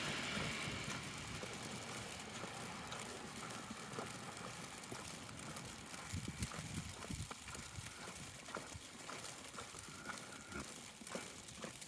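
Footsteps on a snowy sidewalk, a soft knock about every half second, while a passing vehicle's noise fades away in the first couple of seconds.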